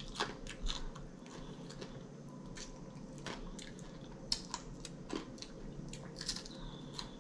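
Close-miked chewing and biting of air-fried chicken, with irregular crisp clicks and smacks of the mouth.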